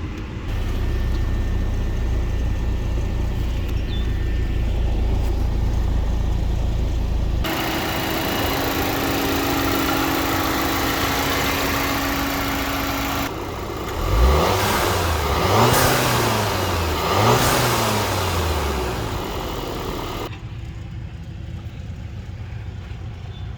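Volkswagen Eos 2.0-litre turbocharged four-cylinder engine idling steadily, then revved briefly three times, the pitch rising and falling with each blip, before settling back.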